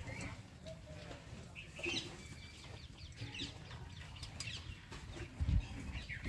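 Faint bird calls, like the clucks and chirps of fowl, scattered over a steady low rumble, with one dull thump about five and a half seconds in.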